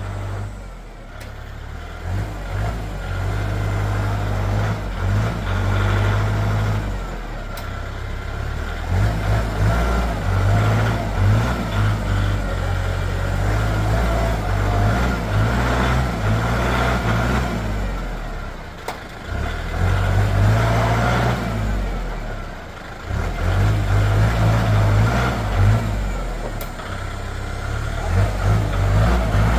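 Diesel tractor engine running, its revs rising and falling again and again, with short dips between surges.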